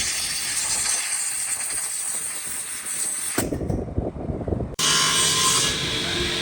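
Woodworking power tools running on wood, a steady hissing machine noise. It changes abruptly twice, about three and a half and about five seconds in, as one tool's sound gives way to another.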